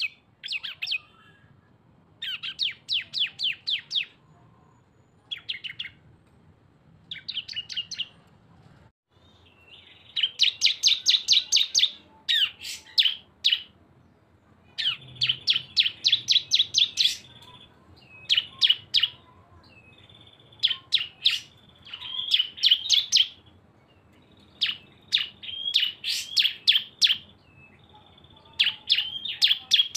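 Prinias (cisem) singing the rapid 'ngebren' song, with two birds sounding together: bursts of quick, sharp chattering notes, about ten a second, that come again every second or two with short pauses between.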